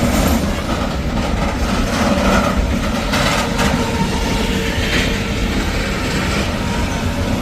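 Train running on rails: a steady, loud rumble of wheels and cars, with a few sharp clacks around the middle.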